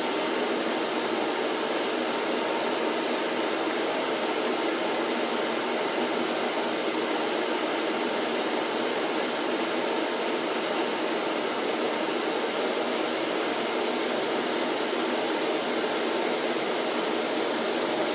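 Vacuum cleaner running continuously: a steady, even rushing noise that holds the same level and pitch throughout.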